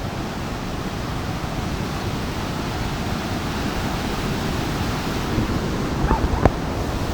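Waterfall pouring, a steady, even rush of falling water. A couple of short knocks sound about six seconds in.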